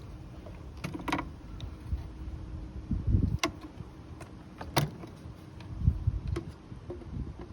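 Clicks and knocks of hand work on an air conditioner's outdoor unit during a circuit board swap: three sharp clicks a second or so apart, and a couple of dull thumps.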